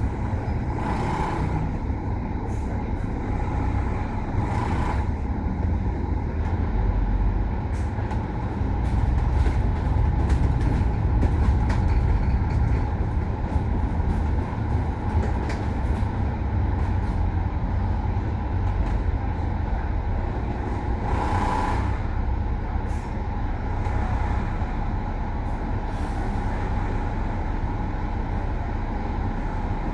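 Kowloon Motor Bus running on the road, a steady engine and road rumble that swells for a few seconds about ten seconds in, with three short hisses of air, typical of a bus's air brakes.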